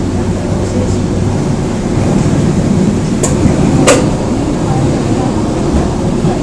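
Train running at speed, heard from inside the carriage: a loud, steady low rumble of wheels and running gear on the rails. Two sharp clicks come a little over three seconds in, about half a second apart.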